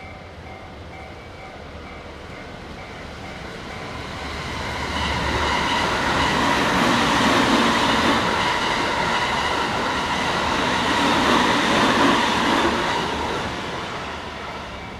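Keikyu electric train passing through a level crossing. It builds up about four seconds in, is loudest in the middle with a second peak as the rear cars go by, and fades near the end. A level-crossing bell rings steadily in the background.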